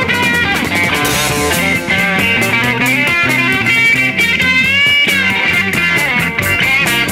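Late-1960s garage/psychedelic rock record playing: electric guitar over bass and a drum kit, with a bent guitar note about halfway through.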